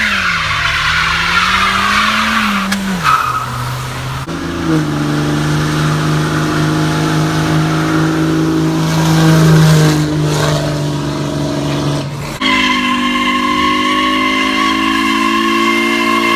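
A car engine revving up and down, then held at steady high revs with tire squeal, as in a burnout. About twelve seconds in the sound cuts abruptly to a different steady, higher-pitched tone.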